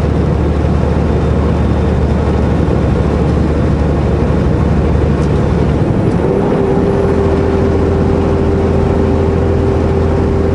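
Semi truck's diesel engine running steadily with road and cab noise. About six seconds in, the engine note changes and a steady high tone starts and holds.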